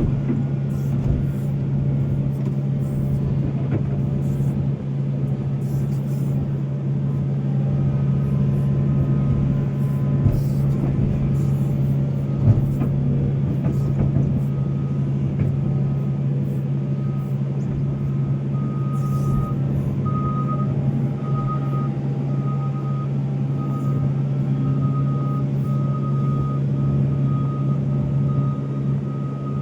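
Volvo excavator's diesel engine running steadily under work, with an occasional knock. From a little past halfway, a back-up alarm beeps a bit more than once a second.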